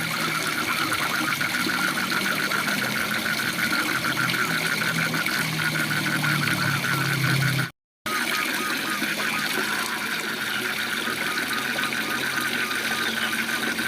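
Waterfall rushing, with frogs calling in a fast, steady trill over it. The sound cuts out completely for a split second about eight seconds in.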